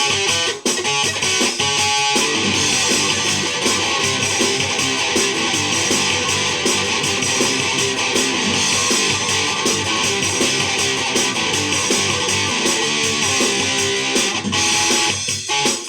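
Guitar music played steadily, with strummed chords and picked notes.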